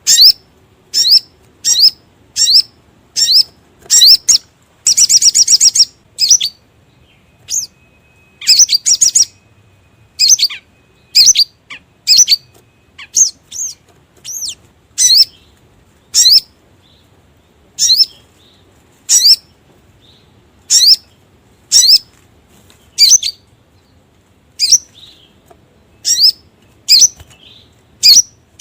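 Sogon (sogok ontong, a spiderhunter) calling: sharp, high chips repeated about once a second, with a quick rattling trill about five seconds in.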